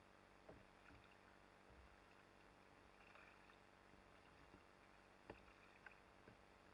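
Near silence, muffled by a sealed waterproof camera housing, with scattered faint knocks and taps from the kayak, the loudest a little past the middle.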